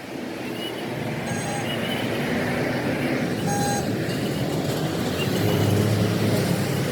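Road traffic noise, vehicles running past, steady and growing a little louder about five seconds in.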